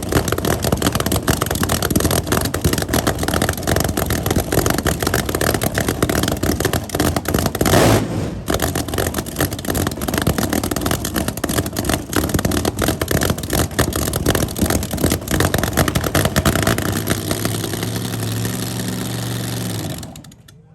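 Loud car engine running hard and revving, with a brief break a little over eight seconds in. It settles into a steadier engine note near the end, then cuts off suddenly.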